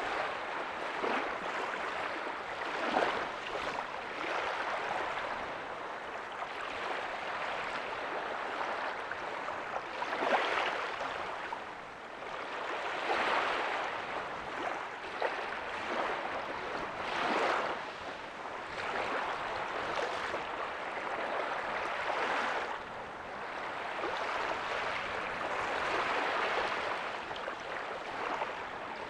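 Small ocean waves breaking and washing up a beach, a continuous rush of surf that swells and eases every few seconds, with brief splashes of breaking water.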